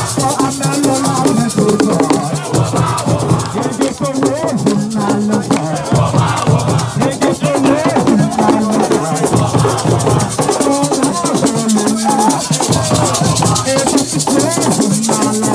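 Live group singing over a fast, steady shaker rhythm and percussion.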